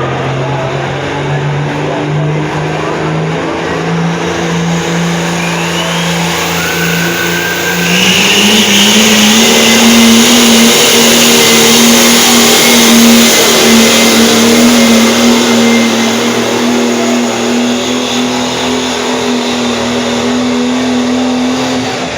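Two-wheel-drive pulling truck's engine running hard under load, its pitch climbing in steps and getting louder about a third of the way in, then holding high before dropping away at the very end.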